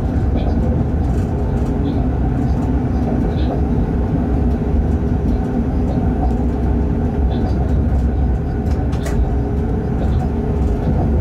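Freight train heard from inside the locomotive cab while running at speed: a steady low rumble of wheels on rail with a faint steady hum. Light clicks come and go throughout, with one sharper click about nine seconds in.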